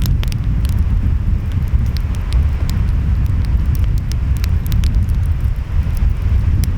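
Wood fire crackling with many small sharp pops, over a loud, steady low rumble of ocean waves and wind.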